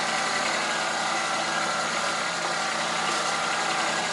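Engine of a front-loader tractor running steadily.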